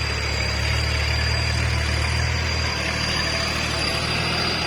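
Kubota tractor's diesel engine running steadily, a constant low hum.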